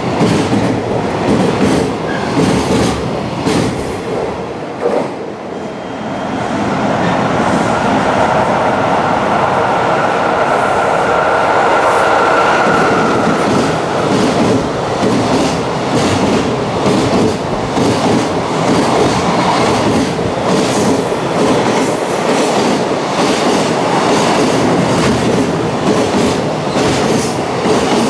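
Container wagons of a long freight train running past at speed close by, a steady loud rush of wheels on rail with a fast, even clickety-clack of wheelsets over the rail joints. A thin high whine rides over it for several seconds in the first half.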